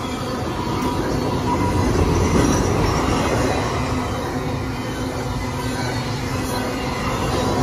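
Union Pacific freight train rolling past, its wheels giving a steady, continuous running noise on the rails.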